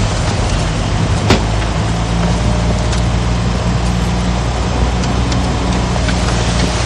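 Heavy diesel earthmoving machinery running steadily, with a sharp clank about a second in.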